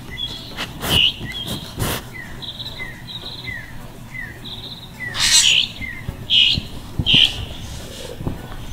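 Small birds chirping: a run of short, high, falling notes and buzzy calls, with a few louder calls about five to seven seconds in. Two sharp knocks about one and two seconds in.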